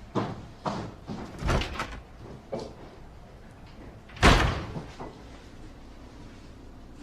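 Several short knocks and rustles of someone moving about, then a door shut firmly about four seconds in, the loudest sound.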